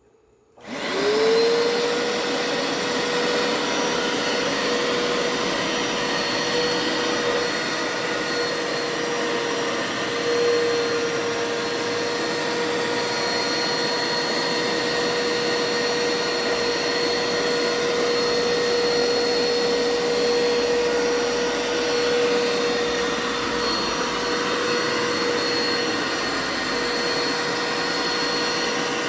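Hoover Power Scrub carpet cleaner switched on about a second in: its motor spins up with a quick rising whine, then runs steadily with an even hum.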